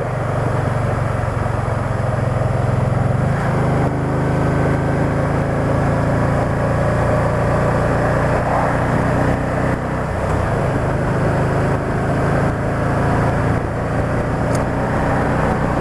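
Can-Am Spyder three-wheeled motorcycle running at road speed: a steady engine drone over wind and road noise, with the engine note changing about three and a half seconds in.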